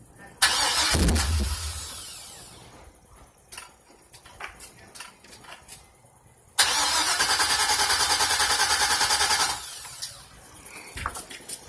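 LS2 V8 in a 1996 Impala being started: a sudden loud burst about half a second in that fades over a couple of seconds, then about three seconds of steady, evenly pulsing cranking that stops abruptly. The engine is hard to start, which the owner puts down to it badly needing a tune.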